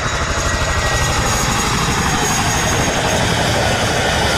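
Loud aircraft noise: a steady, rapid low throbbing with a hiss over it.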